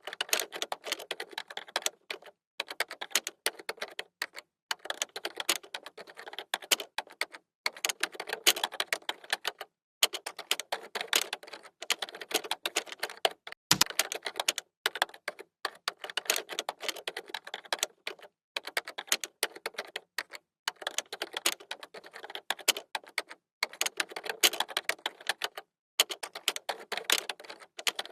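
Fast typing on a computer keyboard: rapid runs of key clicks in bursts of a second or two, broken by short pauses.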